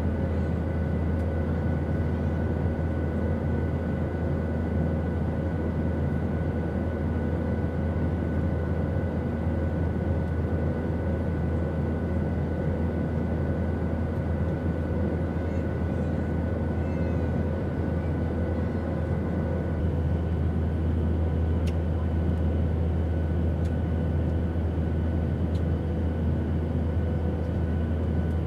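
Airliner cabin noise in flight: a steady low rumble with a few steady whining tones above it. The tones shift slightly about twenty seconds in, and a few faint clicks follow.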